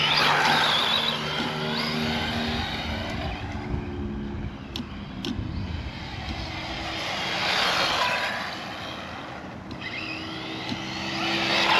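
ZD Racing RX12 RC rally car driving past at speed, its motor whine and tyre noise rising as it comes near and fading as it goes away, several times over.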